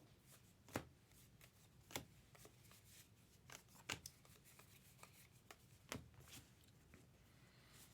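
Faint handling of trading cards: short sharp clicks and soft slides as cards are flipped through a stack, with louder snaps about one, two, four and six seconds in.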